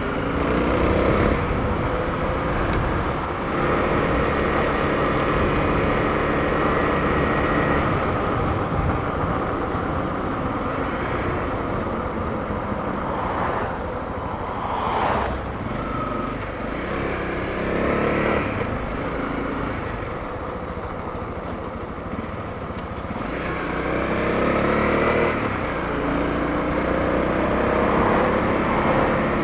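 Honda CRF250L's single-cylinder four-stroke engine running as the motorcycle is ridden, its pitch rising and falling several times as the rider speeds up and slows down.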